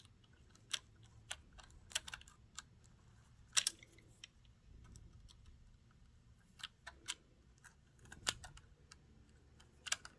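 Irregular light clicks and taps of small metal parts being handled and fitted inside a sewing machine's mechanism, a few of them sharper and louder.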